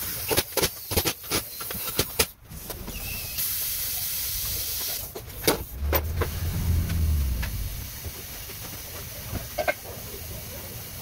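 Several sharp clicks and knocks, then a steady hiss of escaping air or spray for about a second and a half, followed by a brief low hum.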